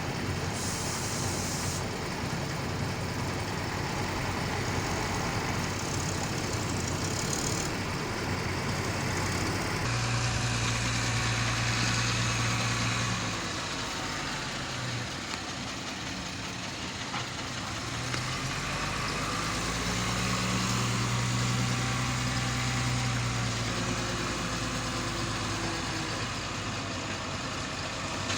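Heavy diesel engine running. Its note changes about a third of the way in, eases off in the middle and picks up again.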